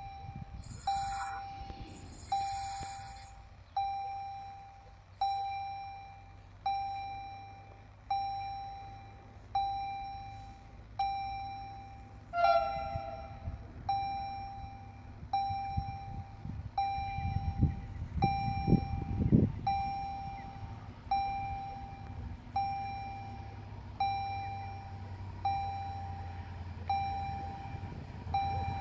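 Level-crossing warning bell ringing over and over, one decaying ding about every one and a half seconds, over the low rumble of a diesel engine that grows louder for a few seconds past the middle.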